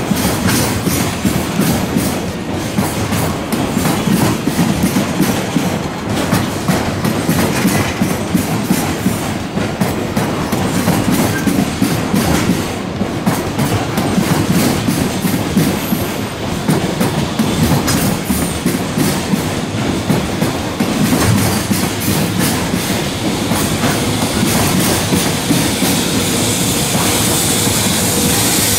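Container freight train's wagons rolling past at slow speed, the steel wheels knocking and clattering continuously over rail joints and pointwork.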